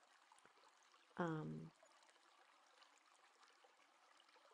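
Near silence with faint room hiss, broken about a second in by one short hummed 'mm' from a person's voice.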